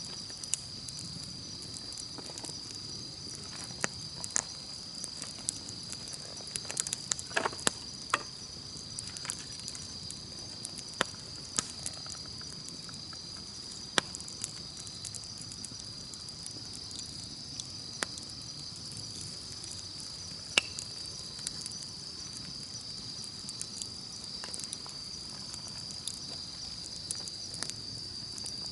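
Wood campfire crackling with irregular sharp pops and snaps, over a steady high-pitched insect chorus.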